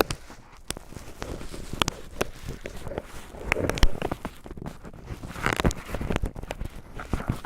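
Cotton swabs crinkled and rubbed against the microphone: an irregular run of sharp crackles and scratchy rustles, swelling a little past the middle and again later on.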